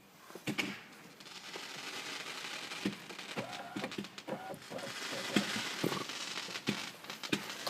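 Fireworks going off: a steady crackling hiss that starts about a second in, with many scattered sharp pops.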